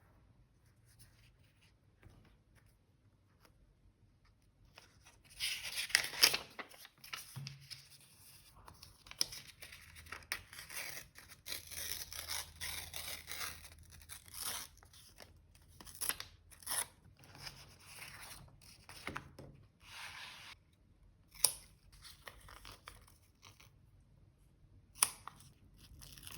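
Paper being torn and handled by hand. After a few quiet seconds comes a long rasping tear, then on-and-off scratchy rustling, and later a few short scrapes and two sharp clicks.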